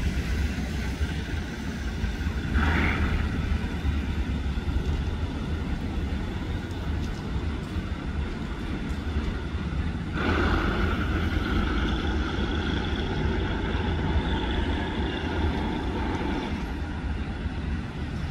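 Diesel-electric locomotive-hauled train running with a steady low rumble. About ten seconds in it gets louder and a steady high whine joins in, fading out about six seconds later.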